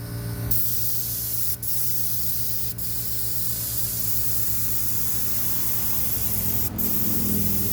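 Paint spray gun hissing as it sprays paint onto a boat hull. The hiss starts about half a second in and breaks off briefly three times.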